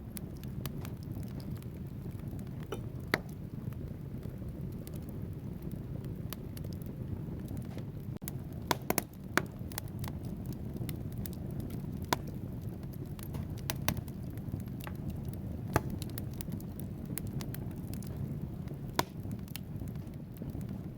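Wood fire burning in a fireplace: a steady low roar of flames with irregular sharp crackles and pops from the logs, including a quick cluster of pops about nine seconds in.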